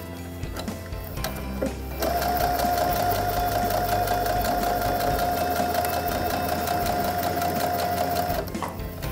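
Brother NQ470L computerized sewing machine stitching a seam, its motor running at one steady speed with an even whine. It starts about two seconds in and stops about a second before the end.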